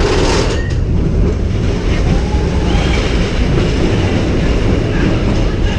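Expedition Everest roller coaster train running along its steel track: a loud, steady rumble and rattle of the wheels.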